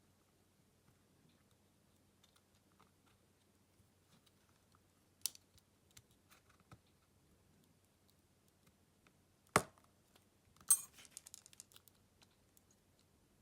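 Small tools and phone parts clicking and tapping on a work surface during a smartphone teardown: a sharp click about five seconds in, a louder single knock past the middle, then a short run of small clicks and rattles.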